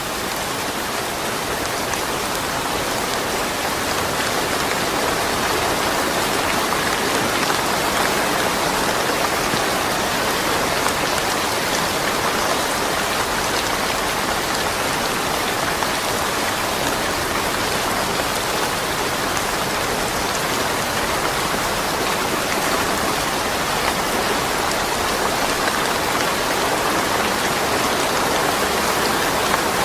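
Steady rain falling, a dense even hiss with scattered drop ticks and no thunder.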